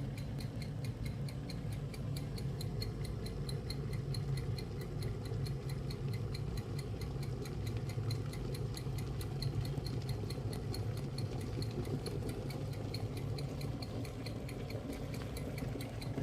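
Glass electric kettle heating a full litre of water close to the boil: a steady low rumble, with an even, fast ticking of about five a second.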